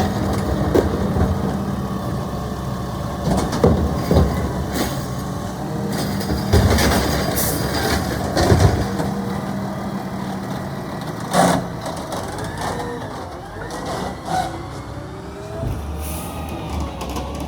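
Garbage truck engine running steadily, with several sharp knocks and bangs over it. In the second half, faint wavering pitched whines come and go.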